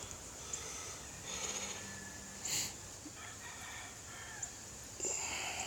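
Two faint pitched animal calls, each lasting under a second, over a steady background, with a brief rustle in between.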